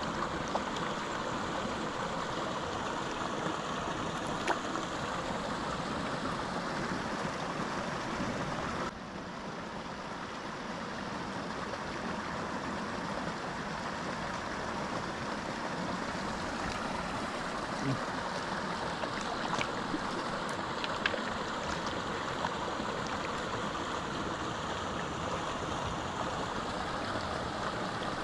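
Small mountain creek running steadily over rocks. The sound drops a little, suddenly, about nine seconds in.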